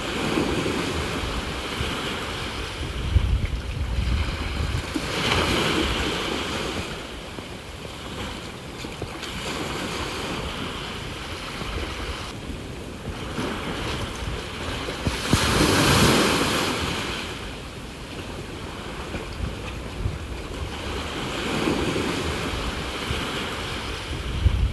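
Ocean waves washing onto the shore, swelling and ebbing in several surges, the biggest about two-thirds of the way through. Short gusts of wind rumble on the microphone.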